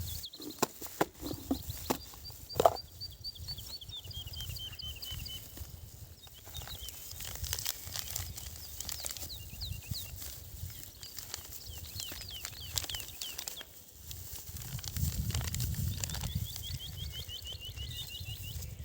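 Small songbird singing repeated trilling phrases that step down in pitch, over a steady low outdoor rush. Several sharp knocks come in the first three seconds, the loudest near three seconds in.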